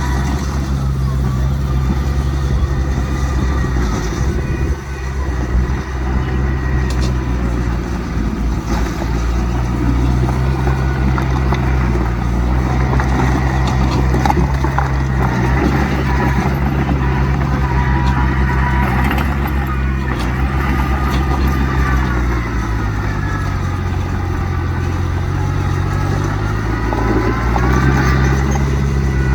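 Heavy diesel earthmoving machinery running steadily. Its engine note dips in pitch and comes back up about three quarters of the way through, as the machine takes on and sheds load.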